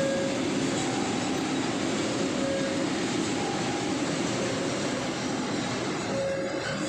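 A train running past close by, a steady rumble and rolling noise of the wheels on the rails.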